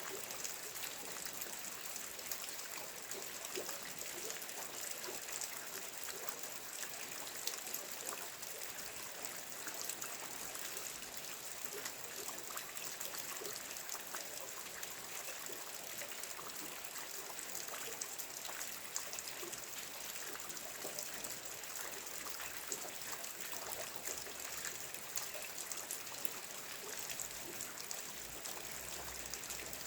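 Steady rain falling, an even hiss of water with many small drips and patters throughout.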